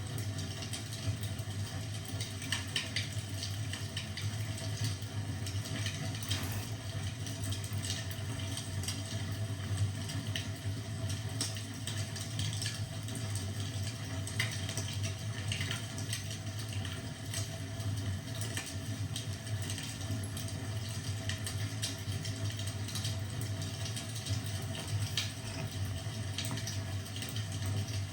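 Fireplace crackling: irregular small pops and snaps over a steady low rumble.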